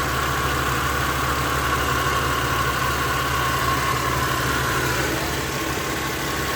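Mercedes-Benz SLK engine idling steadily, heard from under the car, with a higher whine that fades about five seconds in; no bottom-end noise, in the owner's judgement.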